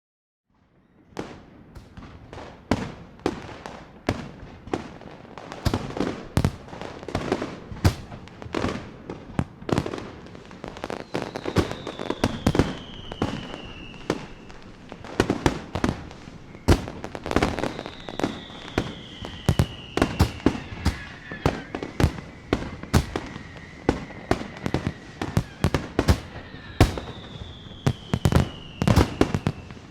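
Fireworks going off: a dense, irregular string of sharp cracks and pops starting about a second in, with three falling whistles.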